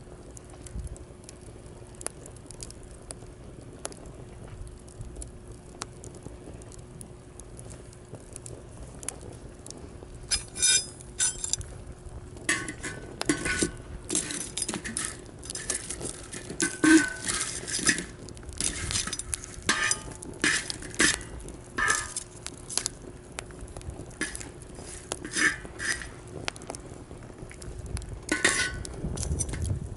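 Campfire in a metal fire stand, with a busy run of sharp clinks and crackles from about a third of the way in until near the end.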